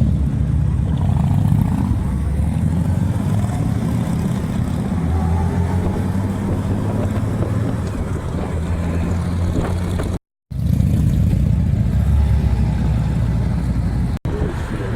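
Vehicle engine and road noise while driving: a steady low rumble whose pitch shifts a little now and then. The sound cuts out completely for a moment about ten seconds in, and again briefly near the end.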